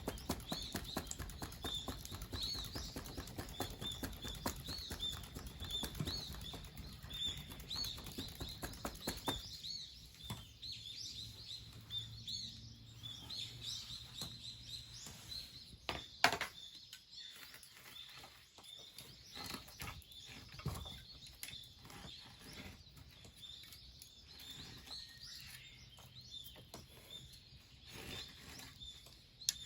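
Fast, rhythmic flapping for about the first ten seconds, like a hand fan (uchiwa) waved at a fire being coaxed to light, then scattered clicks and knocks with one sharper knock midway. A bird chirps over and over throughout.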